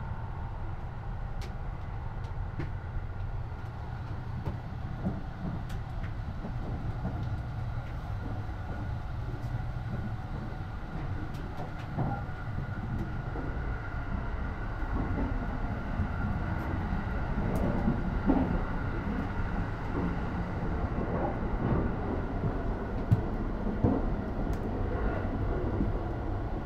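Interior noise of the Sunrise Express, a 285-series electric sleeper train: a steady low rumble with a faint steady whine above it. Scattered short knocks and clicks grow more frequent in the second half as the sound gets a little louder.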